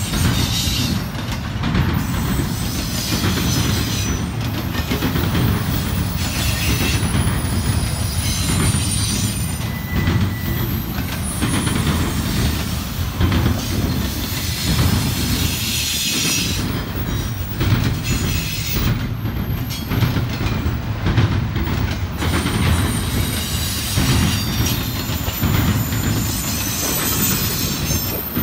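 Double-stack intermodal container train of well cars rolling steadily past, its wheels running on the rails, with thin high wheel squeals coming and going.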